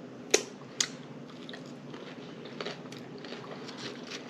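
Close-miked mouth sounds of a person eating a forkful of chicken taco salad: two sharp bites or smacks in the first second, then a run of softer chewing and lip-smacking clicks.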